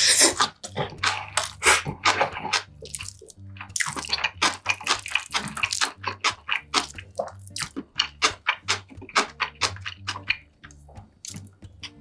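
Close-miked eating: slurping liquid near the start and again around the middle, with many short wet chewing clicks in between.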